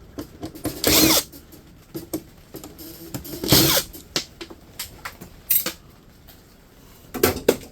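Power drill run in two short bursts, about a second in and again near the middle, its pitch rising as it spins up, with scattered clicks and knocks between and a cluster near the end.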